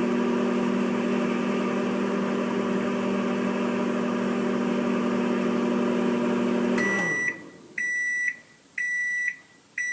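Microwave oven running with a steady electric hum. About seven seconds in, the hum winds down and stops, and the oven beeps four times, about once a second: the cooking cycle is done.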